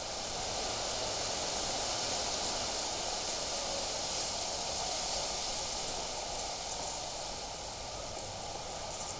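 Wind blowing, a gust that swells over the first couple of seconds and slowly eases off after about five.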